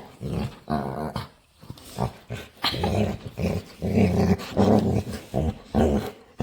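Dog growling in play, a string of short low growls that come more often and louder from about halfway through.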